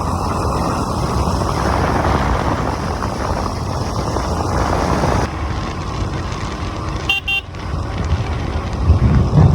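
Steady road and wind noise of a motorcycle ride, with a vehicle horn beeping twice in quick succession about seven seconds in.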